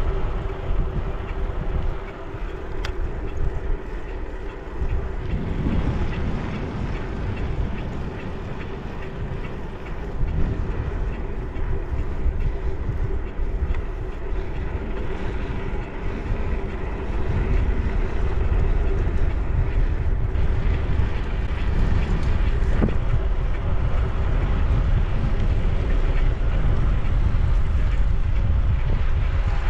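Bicycle riding on a paved trail: wind rushing over the microphone and a low tyre rumble, with a faint steady hum. It gets a little louder about halfway through.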